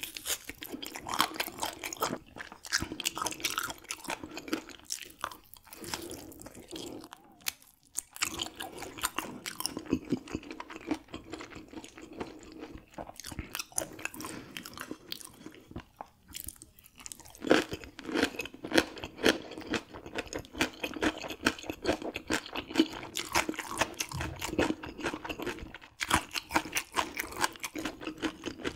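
Close-miked chewing of raw gizzard shad eaten bone-in, the small bones crunching with a crisp, rapid crunch over and over. The crunching pauses briefly about a quarter of the way in and again just past halfway.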